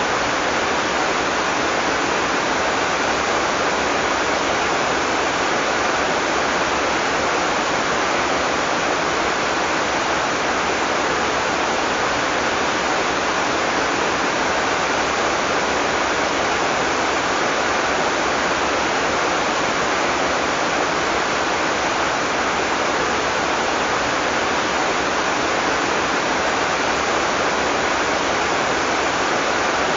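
Heavy tropical rain falling steadily as a dense, even hiss, with no thunder.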